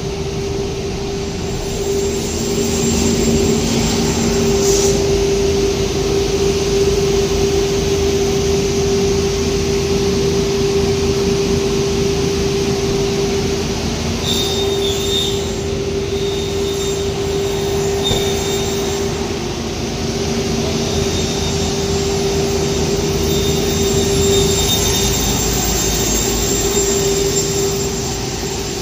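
A machine running steadily, a constant whine over a rumbling noise, with a faint high whistle joining about halfway through.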